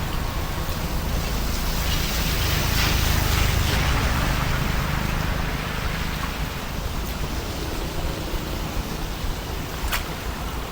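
Heavy rain falling, a steady rushing hiss that swells a couple of seconds in, with a sharp click near the end.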